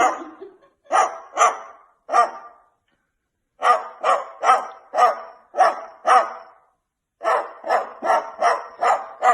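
A dog barking repeatedly, in three bouts of short, sharp barks separated by brief pauses, about two barks a second within each bout.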